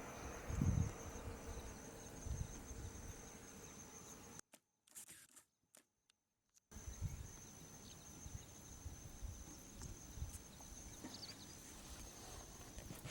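Outdoor bush ambience: a steady high-pitched insect drone over low rumbling noise on the microphone, with a thump about a second in. The sound cuts out entirely for about two seconds near the middle.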